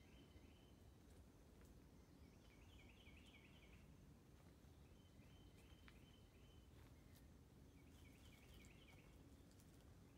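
Near silence with faint outdoor ambience, and a small bird faintly singing a short chirping phrase about every three seconds.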